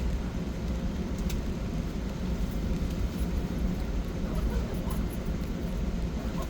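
Steady low rumble of a vehicle in motion, with a single sharp click about a second in.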